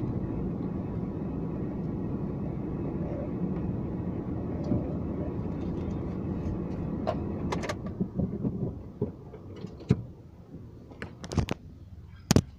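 Car running with a steady low rumble that dies down about eight seconds in, followed by a scattering of sharp clicks and knocks, the loudest just before the end.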